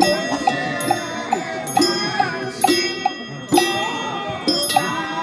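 Temple ritual music: a metal bell or small gong struck about once a second, each stroke ringing on, over quick light taps and a wavering melody.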